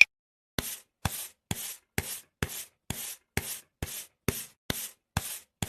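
Rhythmic scraping strokes, about two a second, each a short rasping hiss with a sharp start.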